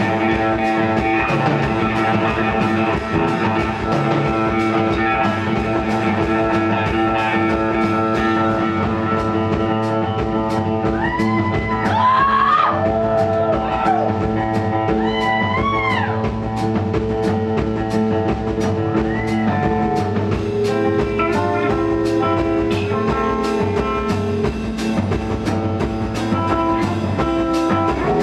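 Live rock band playing an instrumental passage: electric guitar over bass and a steady drum kit beat, with bending guitar notes in the middle.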